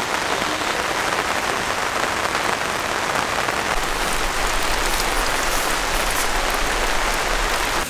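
Heavy rain falling steadily on a camping tarp and the surrounding trees.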